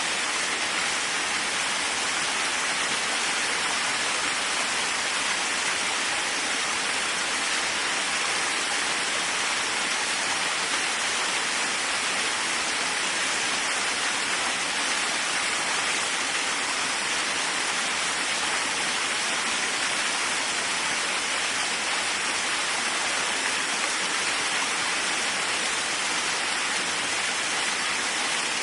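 Waterfall: a steady, unbroken rush of falling water with a hissing, mid-to-high character and little low rumble.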